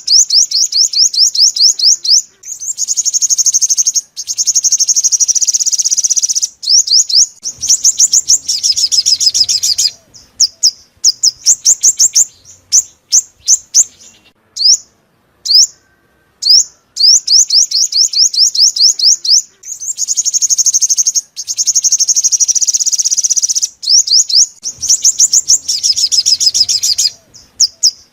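Sunbird song: fast runs of high, sharp chirps and trills, repeated in the same phrases again and again, as a lure recording for speaker traps.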